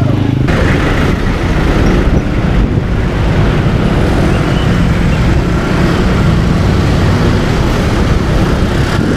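Steady road and traffic noise from a motorcycle on the move, its engine running under an even rush of noise.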